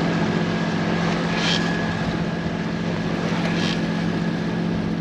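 A sailboat's auxiliary engine running steadily under way, a constant low hum with a thin whine above it. Two brief hissing swishes come about a second and a half in and again near the end.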